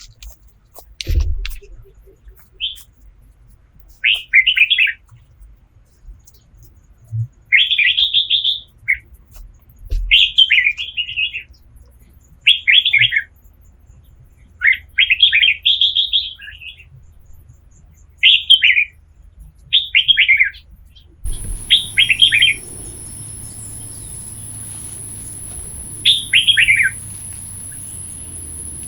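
A songbird singing short chirping phrases, about a dozen of them, one to a few seconds apart. About two-thirds of the way through, the background changes suddenly to a steady high-pitched hum over a low hiss.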